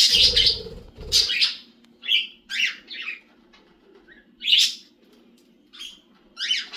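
Pet bird chirping in short, separate calls while it feeds, after two louder rustling bursts at the start. A faint steady hum runs underneath.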